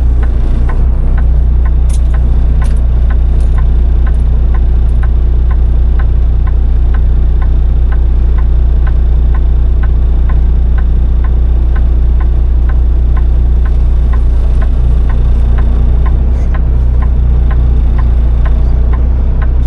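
Steady low drone of a Kenworth semi truck's diesel engine and road noise inside the cab while driving, with an even ticking of about three clicks a second from the turn signal.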